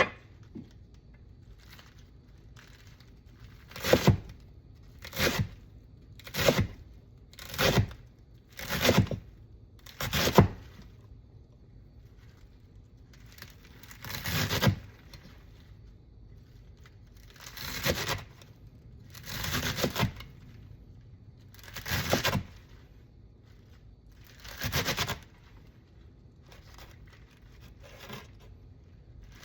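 A series of short tearing, scraping strokes, each about half a second long. They come about once a second for a while, then every two to three seconds.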